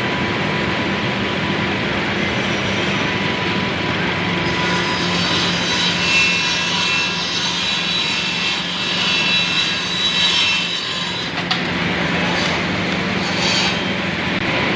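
RH-826ART double-end automatic cutting and milling machine running with a steady motor hum. From about a third of the way in until near three quarters, a higher whine of saw blades and milling cutters working wood rises over it.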